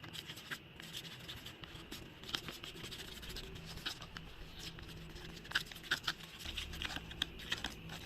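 Glue mixed with slime colour being stirred in a small container, the stirrer scraping and clicking irregularly against the sides, a few louder clicks near the end.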